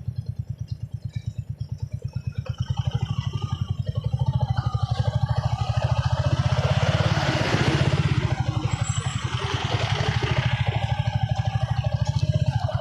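Motorcycle engine running with a steady low putter, growing louder and quicker about two and a half seconds in as it picks up, with a rush of wind noise in the middle.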